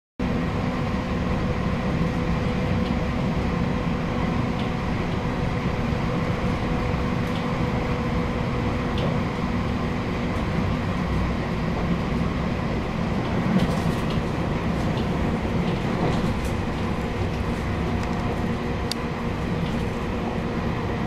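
A diesel local train running, heard from inside the passenger car: a steady engine drone over the rumble of the wheels on the rails, with a few faint clicks.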